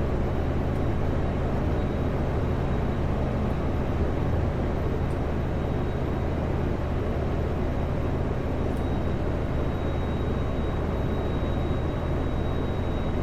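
Kenworth W900L semi truck heard from inside the cab while driving: steady diesel engine drone and road noise, with a faint steady high whine.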